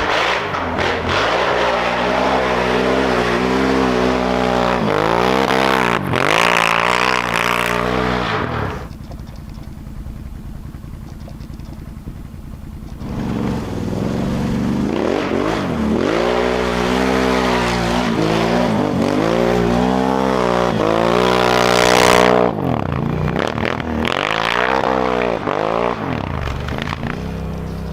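Can-Am Outlander 1000 ATV's V-twin engine through an RJWC single aftermarket exhaust, revving up and falling back again and again. It drops to a low idle for about four seconds about a third of the way in, then revs hard again, peaking near the end.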